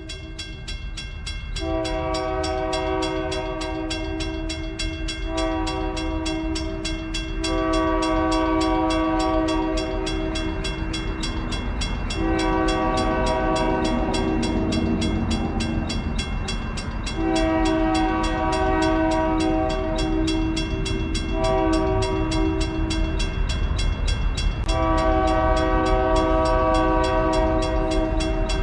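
A diesel freight locomotive's multi-chime air horn sounds a chord in a series of long blasts, about seven in all, separated by short breaks. Under the horn, the rumble of the approaching diesel locomotives grows steadily louder.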